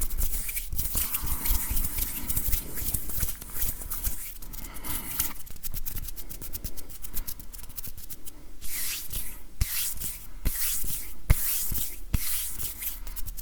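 Close-miked ASMR hand sounds: hands rubbing together, with many small sharp clicks and taps throughout. A steadier rubbing hiss runs from about a second in to about five seconds in.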